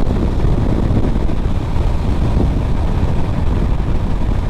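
Loud, steady wind buffeting and rumbling on the microphone as a dual-hub-motor electric bike rides at full throttle, accelerating through about 45 to 49 mph.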